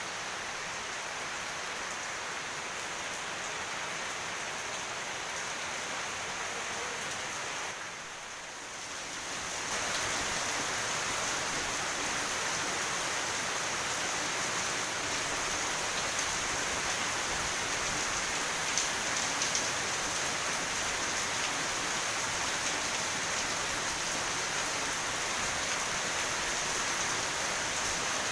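Heavy rain falling steadily in a dense hiss. It drops back briefly about eight seconds in, then comes back a little louder.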